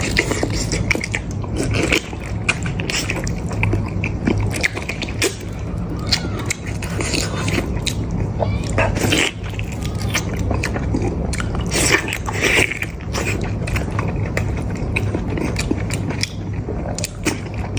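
Close-up eating sounds of goat head meat: wet chewing and biting with many quick, irregular mouth clicks and smacks.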